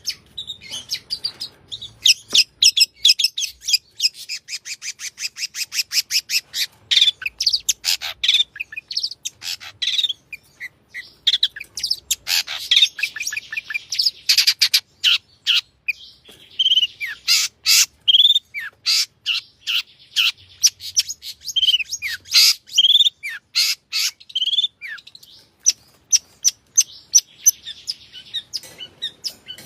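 Long-tailed shrike singing without pause: rapid chattering trills and runs of clicking notes mixed with short slurred whistles, a varied song full of mimicked calls of other birds.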